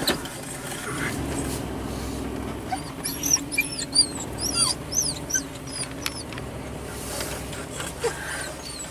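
A dog whining: a run of high, rising-and-falling whimpers starting about three seconds in and lasting a few seconds, over the steady low hum of a truck on the move.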